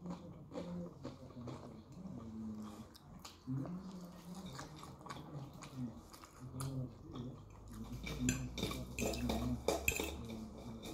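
Close-up eating sounds: crunchy food being bitten and chewed with crackling mouth noises, thickening and growing louder about eight seconds in, and a fork clinking against a plate near the end. A low voice-like murmur runs underneath.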